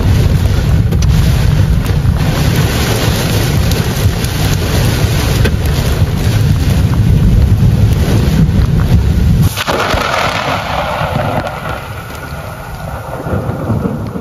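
Heavy rain pouring in a thunderstorm, with a loud, deep, steady rumble beneath it. About nine and a half seconds in it changes suddenly to a lighter hiss of rain that fades toward the end.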